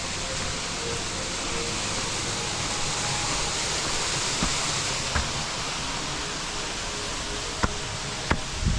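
Steady rushing of running water, with a few sharp clicks near the end.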